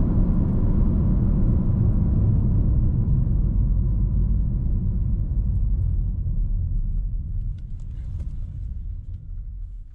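Suzuki Vitara driving: a steady low rumble of engine and road noise that dies away over the last few seconds.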